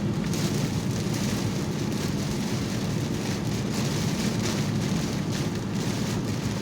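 Heavy rain pelting a car's roof and windshield, heard from inside the cabin over steady engine and tyre noise, with the windshield wipers sweeping on high about once a second.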